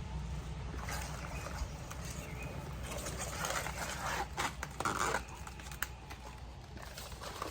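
Plasti-Dip rubber coating being peeled by hand off a truck's body panel: scattered short tearing and rustling noises, busiest about three to five seconds in, over a steady low rumble.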